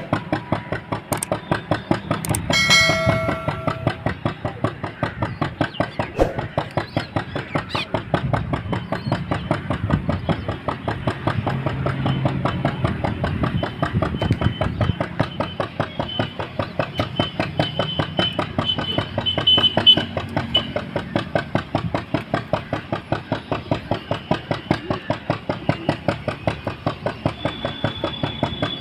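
A slow-running engine idling with an even chugging beat, about three and a half beats a second. A brief pitched tone sounds about three seconds in.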